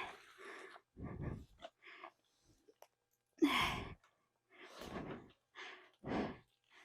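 A person breathing hard in short, uneven gasps and exhales while straining to hold a dirt bike balanced in place, about half a dozen breaths, the loudest one a little past the middle.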